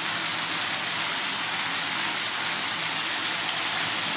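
Pork ribs and lemongrass sizzling in a hot wok, a steady frying hiss.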